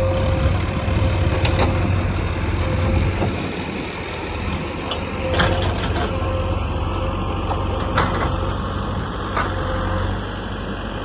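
Heavy diesel engine of the backhoe loader or tractor running steadily at low speed, with a few sharp metallic clanks scattered through.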